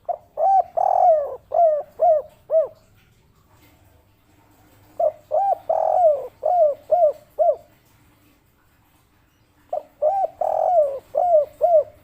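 Spotted dove (derkuku) cooing in the 'kuk 3' song type: three phrases about five seconds apart, each a few short arched coos with one longer coo, then a run of short 'kuk' notes. The third phrase starts near the end.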